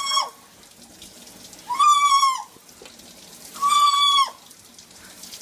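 A bird giving the same steady-pitched call over and over, three times about two seconds apart, each call lasting well under a second.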